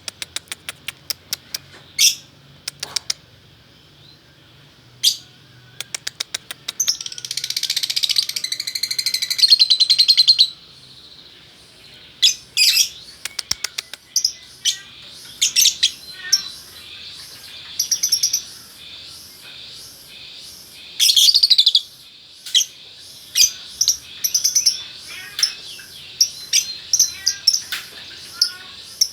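A pair of lovebirds calling: series of sharp, high chirps, with a dense, continuous chattering stretch about seven to ten seconds in, then quick clusters of chirps.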